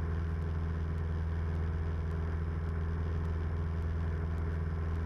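A 1976 Cessna 172M's four-cylinder Lycoming O-320 engine and propeller droning steadily in flight, as an even low hum with no change in pitch.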